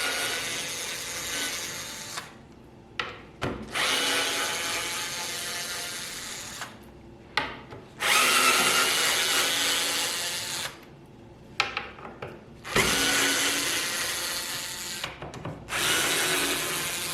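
A handheld power drill running in about five bursts of two to three seconds each, with short pauses and a few sharp clicks between bursts.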